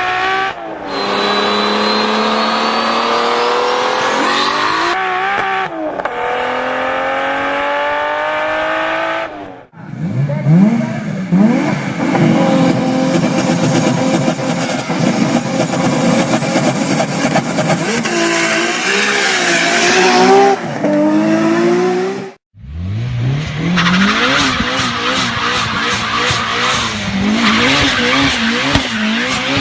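Turbocharged car engines revving up and down in a string of separate short recordings, each cut off abruptly. High turbo whine rises with the revs in some of them. Near the end comes a rapid run of sharp high chirps, about two a second, over an engine note that wavers up and down.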